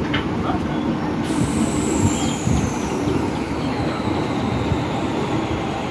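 Train running on the rails, a steady rumble, with a high whine that starts about a second in and slides steadily down in pitch.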